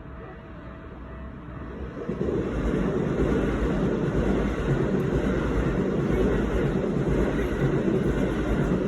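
Keikyu limited express train passing the level crossing. Its running noise rises about two seconds in, then stays loud and steady.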